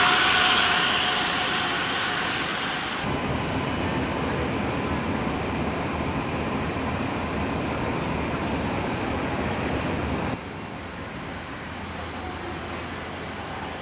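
Steady machinery noise of a truck assembly plant floor, with a fading whine in the first second. The noise changes abruptly about three seconds in and drops quieter about ten seconds in.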